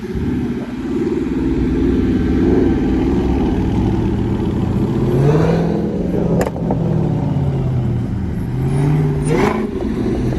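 Loud V8 car engine revving, its pitch rising and falling, with two harder, rougher surges about five and nine seconds in.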